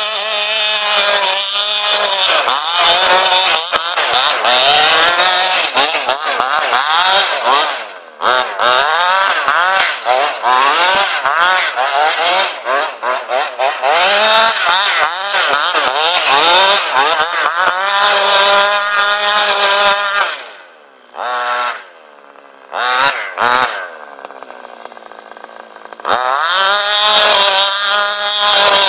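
Tuned 23cc two-stroke petrol engine of an RC car revving hard over and over, its pitch rising and falling constantly. About two-thirds of the way through it drops to a quieter idle for a few seconds, broken by a couple of short blips, then revs up again.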